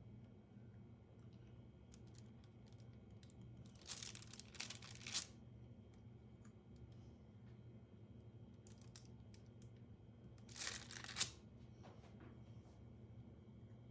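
Faint handling sounds: two short bursts of rustling with light clicks, about four seconds in and again near eleven seconds, over a low steady hum.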